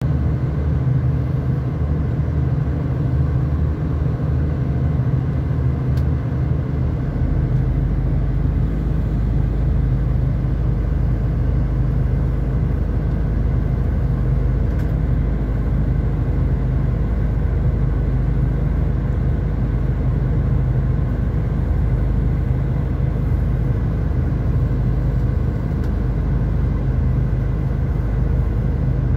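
Steady low rumble of a V/Line country diesel train heard from inside the carriage, its engine and running gear humming as it moves. A deeper hum comes in about seven seconds in.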